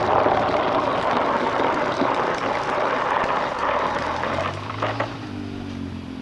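Yamaha TT-R125 dirt bike's single-cylinder four-stroke engine running under load, a loud, rough drone for the first four seconds or so, then easing to a quieter, steadier hum near the end.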